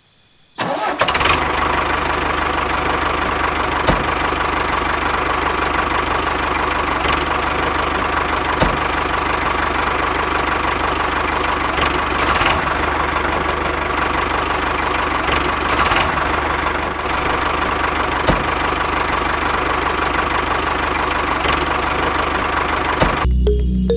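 The small motor of a DIY mini tractor running steadily with a constant pitch. It starts about half a second in and cuts off just before the end, with a few sharp clicks along the way.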